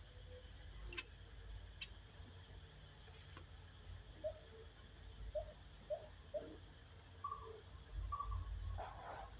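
Faint bird calls: a run of four short low notes a little past halfway, then two short higher notes near the end, over a steady low rumble.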